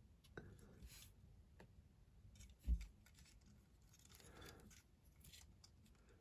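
Faint handling sounds of a Lego model car being moved about: scattered small clicks and a brief rustle, with one soft thump a little under halfway through.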